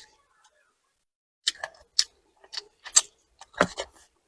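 Close-miked eating sounds: a series of about six short, sharp clicks and smacks spread over a couple of seconds.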